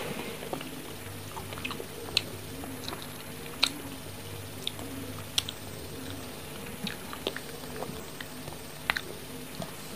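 A mouth chewing fresh strawberry close to the microphone, with scattered short, sharp wet clicks and smacks.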